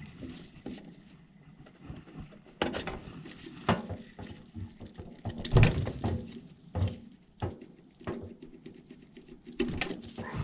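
Irregular clicks, taps and rustles of hands handling tools and parts, with a louder knock about halfway through.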